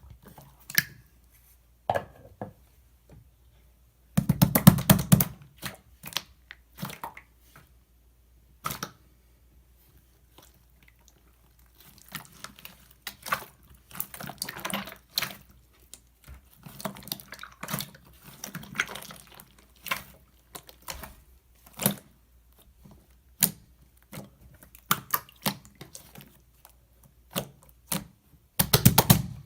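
Slime with clay mixed into it being pressed and stretched by hand, giving scattered sharp clicks and small pops from trapped air. There are two dense bursts of crackling, about four seconds in and near the end.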